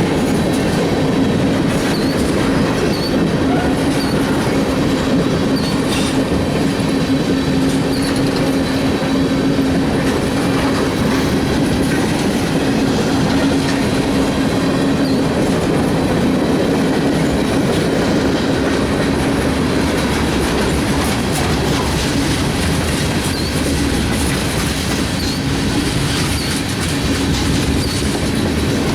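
Norfolk Southern freight train rolling past, a steady, unbroken rumble of railcars on the rails with a held tone of wheel squeal.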